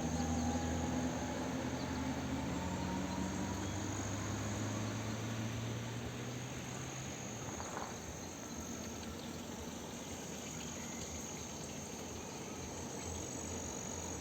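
Insects chirring steadily in a high, even drone, over an outdoor background hum; a low steady hum underneath fades out about halfway through.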